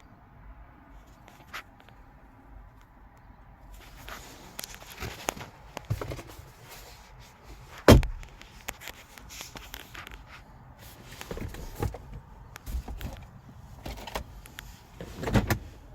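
Clicks and knocks of a car door and its trim being handled, with a loud thump just before eight seconds in and another near the end, like a door being shut.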